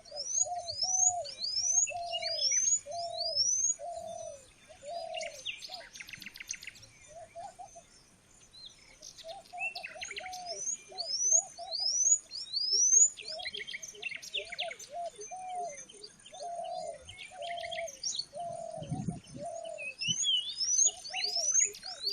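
Several wild birds calling together: runs of quick, high, rising whistled notes; a long string of short, lower hollow notes, about two a second; and a few harsh chattering bursts. A faint steady high-pitched hiss runs underneath.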